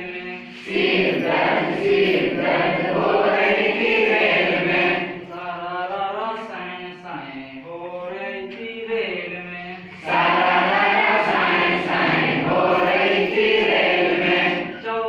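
Group singing in chorus, a Hindi children's song about a train. It is loudest and fullest in two long stretches, from about a second in and again from about ten seconds in, with fewer voices carrying the tune between them.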